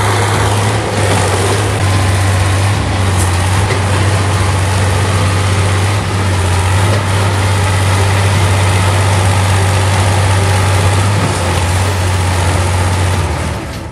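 Heavy vehicle engine running steadily with a strong low hum, dropping away near the end.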